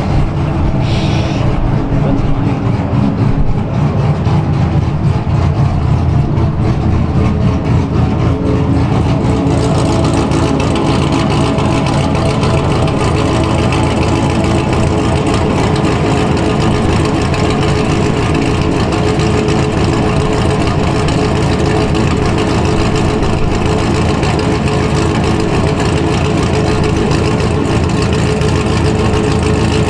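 C6 Corvette's small-block V8 with a BTR Stage 3 camshaft, long-tube headers, X-pipe and dual exhaust, running loud and steady at idle, a little brighter from about nine seconds in.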